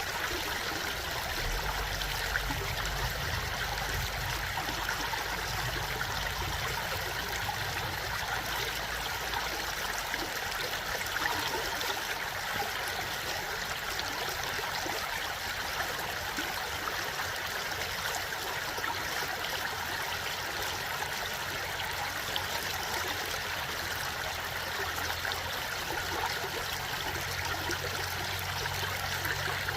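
Flowing water, like a stream, running steadily with an even rush and trickle.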